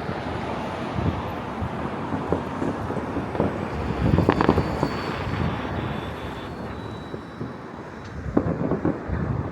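Fireworks banging and popping at a distance across a city, scattered single reports with a quick cluster about halfway through, over a steady rumble of wind on the microphone.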